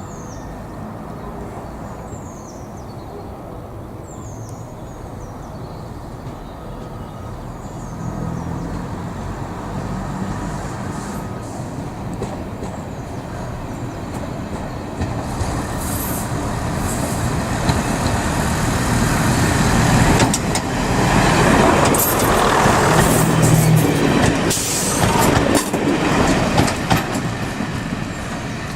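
A train approaching and getting steadily louder, with a low engine note and wheels clicking over the rail joints, loudest about three-quarters of the way through. Birds chirp in the first few seconds.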